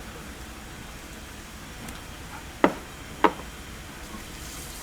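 Garlic frying in hot oil in a pan, a steady soft sizzle, with two sharp knocks about half a second apart near the middle, a metal utensil striking the pan.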